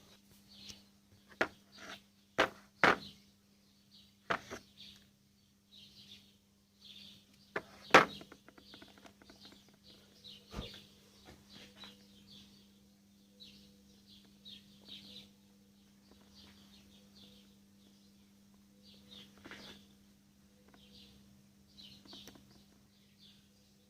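Scattered clicks and knocks of compressor parts being handled and fitted together during reassembly, the sharpest about eight seconds in. Faint bird chirps and a low steady hum run underneath.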